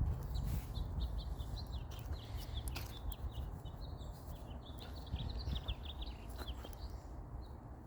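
Small birds chirping in quick, repeated calls, over a steady low rumble.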